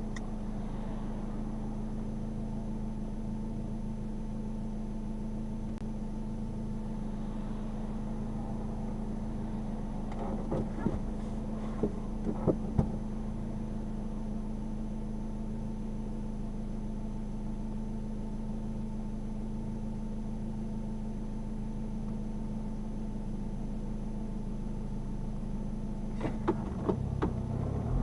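Subaru Sambar's small four-cylinder engine running at a steady speed, heard from inside the cab as a constant hum. A few short knocks or clicks sound about halfway through and again near the end.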